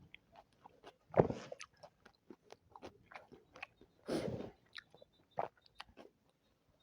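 Close-up eating sounds: wet chewing and biting of chicken biryani and chicken legs, with scattered small clicks and smacks and two louder bites about a second in and about four seconds in.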